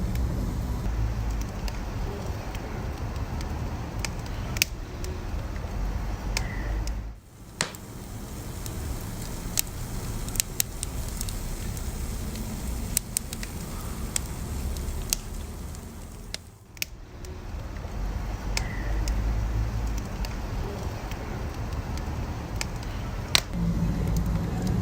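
Wood fire burning, with sharp crackles and pops scattered over a low steady rumble of flames. The sound briefly dips twice, about a third and two-thirds of the way through.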